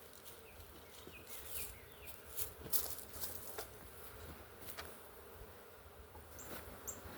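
A honey bee swarm buzzing steadily, with a faint, even hum. Several sharp clacks and rustles break in, the loudest a little under three seconds in.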